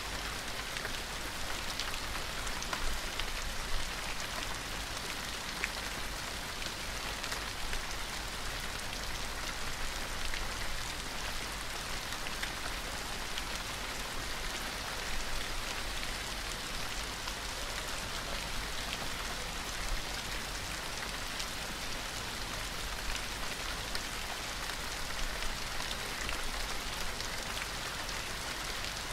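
Steady gentle rain, an even hiss scattered with small distinct drop ticks.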